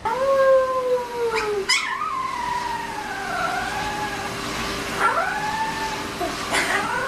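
A dog howling: a long, slightly falling howl, then a longer wavering one, followed by shorter rising-and-falling howls. A faint steady tone runs underneath.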